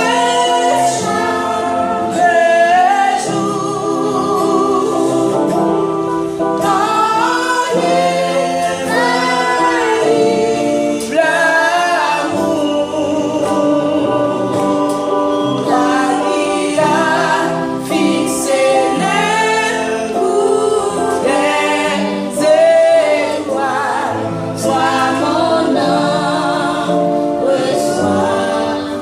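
A woman and a group of children singing a gospel song together, many voices holding wavering notes.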